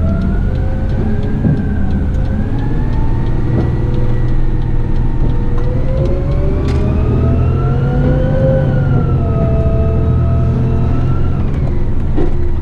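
Eight-wheeler rigid truck driving, heard from the cab: a steady low engine and road rumble with a whine that slowly rises and falls in pitch and dies away near the end.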